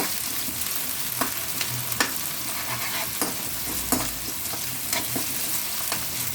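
Onion and tomato frying in oil in a kadai with a steady sizzle, and a spatula scraping and knocking against the pan about once a second as they are stirred.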